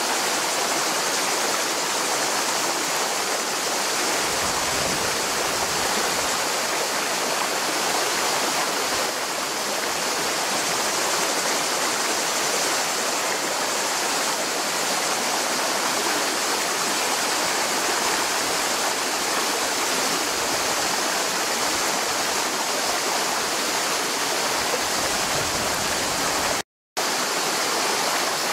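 Mountain river rushing over rocks, a steady flow of water, with a brief dropout to silence near the end.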